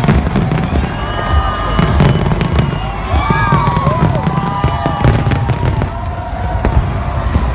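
Fireworks going off in quick, repeated bangs over a large crowd cheering and whooping.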